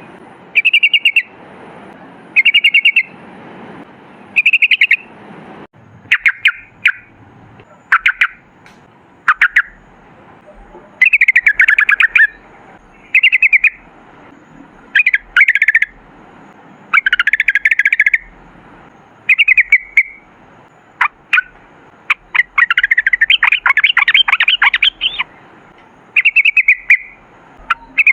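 Yellow-vented bulbul (trucukan) singing: short, rapid, bubbling phrases repeated every second or two, with one longer, faster run of notes about two-thirds of the way through.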